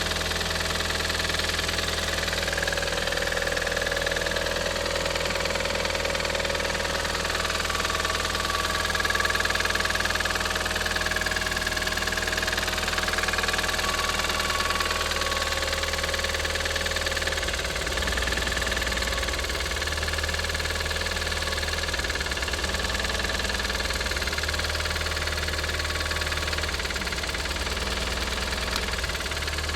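Audi TT 225's BAM 1.8-litre 20-valve turbo four-cylinder running steadily at idle with a persistent knock. The knock is still there after new hydraulic lifters, a new cam chain tensioner and a complete timing job. The engine has two cylinders low on compression, at 6.5 and 8 bar against 10 bar on the others.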